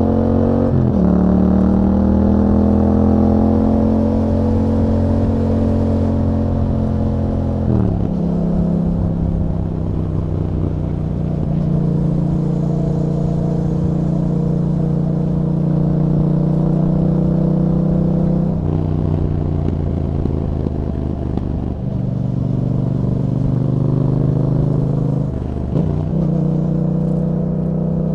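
2021 Yamaha MT-07's 689 cc parallel-twin engine running through an Akrapovic exhaust with a dB killer fitted, under way on the road. The revs climb over the first few seconds and fall sharply about eight seconds in. After that the engine holds steady stretches, with pitch steps near 18, 22 and 25 seconds.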